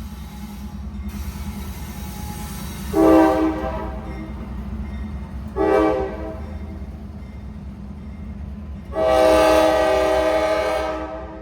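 Freight locomotive's air horn sounding two short blasts and then one long blast of about two seconds, over the steady low rumble of the passing diesel train.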